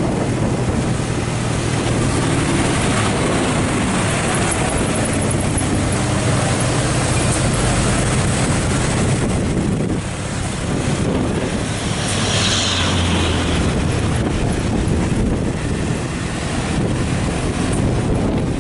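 Heavy truck's diesel engine running steadily under load as it climbs, with a low drone. A short hiss cuts in about twelve seconds in.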